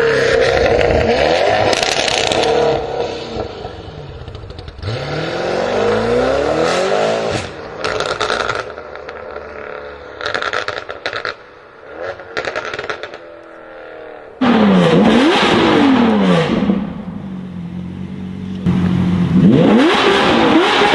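Supercar engine and exhaust under hard acceleration, the note climbing and falling again and again as it revs and shifts. Partway through, the engine quiets and short sharp crackles and pops break in, then a loud rev returns suddenly.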